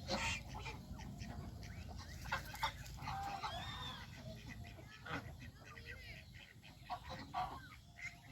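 Domestic geese calling, a run of short honks and arching calls scattered throughout.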